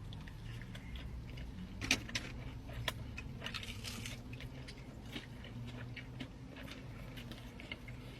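Close-up eating sounds: biting and chewing with scattered small clicks, a couple of sharper knocks about two and three seconds in, and a brief crunchy stretch near the middle, over a low steady hum.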